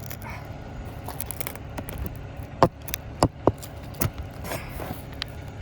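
Roof snake (shingle nail ripper) prying and scraping at an overdriven roofing nail under an asphalt shingle: scattered sharp metallic clicks and knocks, the loudest few bunched around the middle.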